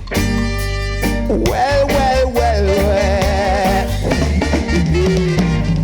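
Reggae band playing live: a held chord over steady bass and drums, then a sustained melodic line with vibrato over the groove.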